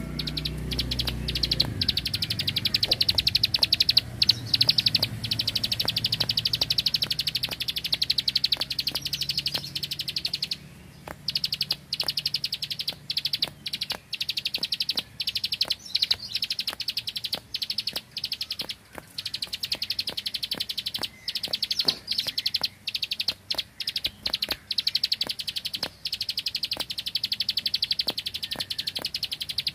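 Prenjak (prinia) singing its rapid 'ngebren' burst song: long, high-pitched runs of fast clicking notes like machine-gun fire, broken by short gaps.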